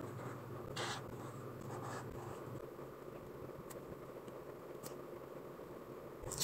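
Scratching and rustling of pen and paper on a planner page, with a few faint ticks and a sharp click at the very end.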